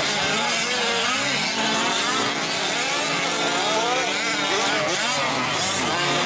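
Several 5th-scale gas RC trucks' small two-stroke engines racing together, their overlapping pitches rising and falling as they rev up and back off.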